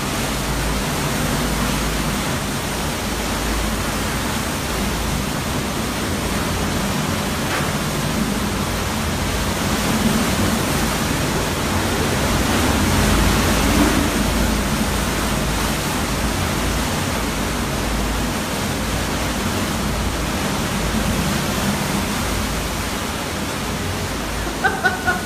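Hurricane-force wind blowing steadily, swelling louder about halfway through.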